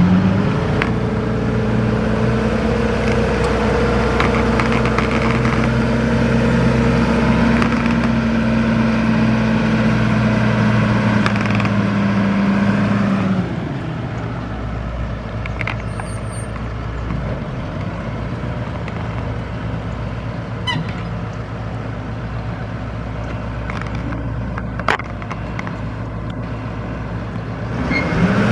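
GM 8.2T diesel engine of a 1987 GMC Top Kick dump truck running at raised speed, dropping back to idle about halfway, then revving up again just before the end.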